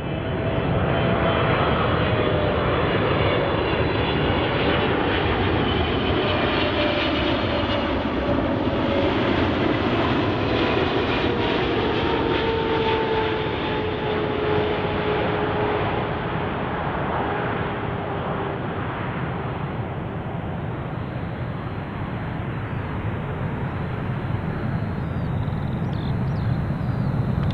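Boeing 777-300ER's GE90 jet engines running as the airliner comes in to land past the listener. The engine whine slides down in pitch as it goes by.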